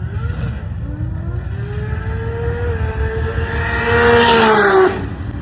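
A car engine revving up, holding high revs for a couple of seconds, then falling away and cutting off near the end.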